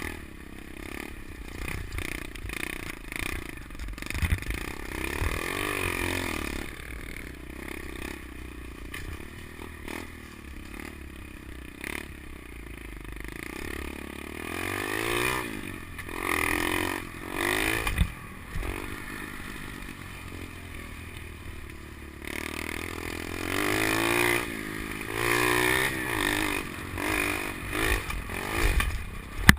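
SSR 125 pit bike engine, fitted with an FMF Powercore 4 exhaust, revving up and easing off again and again as the bike is ridden, with clattering knocks from the bike over the bumps. The choke is left on, so the engine can't be run out at full throttle.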